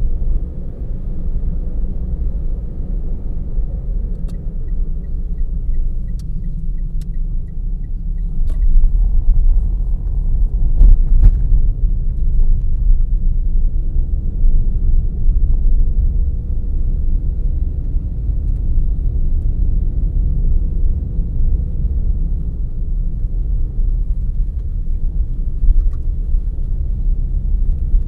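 Car driving, heard from inside the cabin: a steady low rumble of engine and tyres. About four seconds in there is a run of light, regular ticks lasting a few seconds, and a few sharp knocks about eleven seconds in are the loudest sounds.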